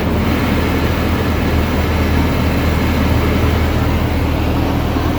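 Automatic car wash machinery running: a loud, steady rushing noise over a low hum.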